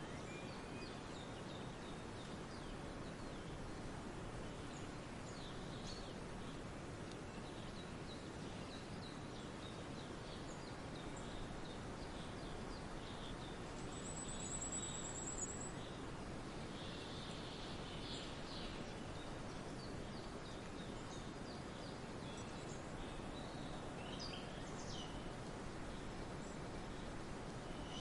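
Forest ambience: scattered bird calls and chirps over a steady background hiss, with one brief high trill about halfway through.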